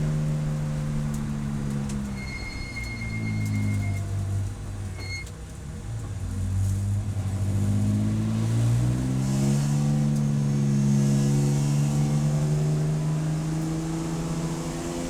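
Race car engine dropping in revs, pulling at low revs for several seconds, then accelerating back up about eight seconds in and holding steady at higher revs. A high electronic beep sounds for about two seconds starting about two seconds in, and again briefly a second later.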